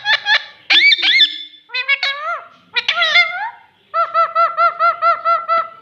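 Ringneck parakeet calling: quick bursts of high squawks and chirps, then near the end an even run of about a dozen identical short notes, about six a second.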